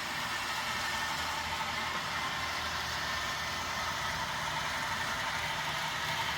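HO-scale model train running steadily along the track, a continuous even whir of its small motor and wheels on the rails.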